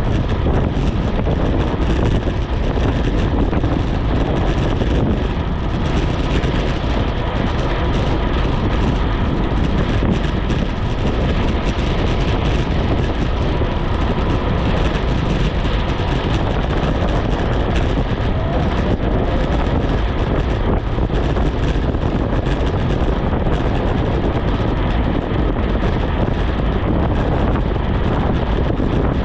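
Steady, loud rush of wind over the microphone of a bicycle descending at speed on a wet road, with no let-up.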